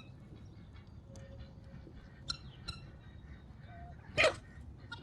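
Backyard poultry calling: a few short, sharp clucks, then one louder call about four seconds in.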